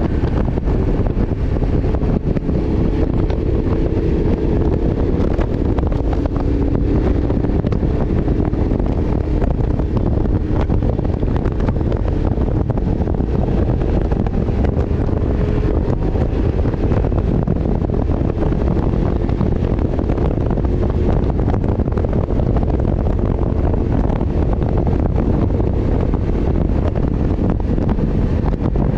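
Heavy wind buffeting on the microphone while riding a liter-class (1000 cc) motorcycle, with the engine droning steadily underneath and its pitch drifting slightly.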